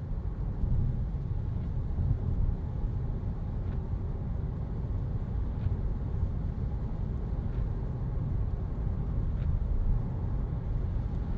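Steady low rumble inside an Opel Insignia B's cabin, with a faint swish about every two seconds from the windscreen wipers running on automatic rain sensing.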